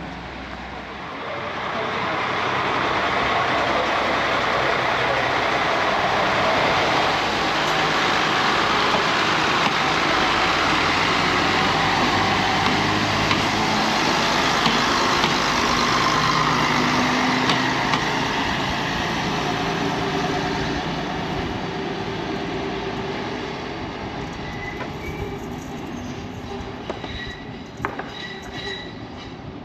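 Narrow-gauge diesel railcar pulling away from the platform and passing close by. Its engine and wheels on the rails swell over the first couple of seconds, stay loud, then fade over the last third as it runs off down the line.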